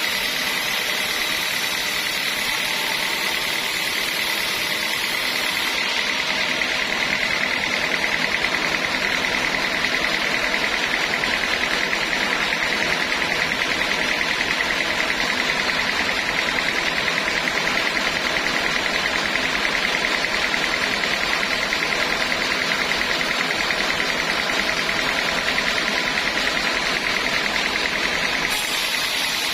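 Sawmill saw running steadily through teak wood, a constant machine noise with a high whine held at one pitch.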